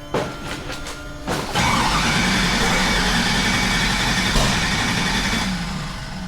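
Start attempt on the LS-swapped twin-turbo V8 of a BMW E36 drag car. A few sharp clicks come first, then about four seconds of loud, steady engine noise begins around a second and a half in and fades away near the end.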